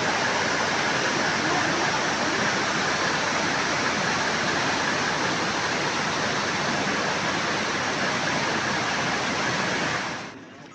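Steady rush of flowing water from the Mara River, cutting off abruptly near the end.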